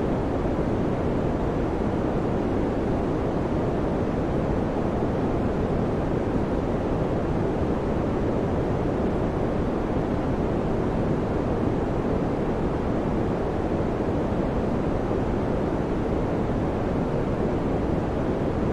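Electric fan running steadily, a constant low whooshing noise with no hum or clicks, weighted toward the low end.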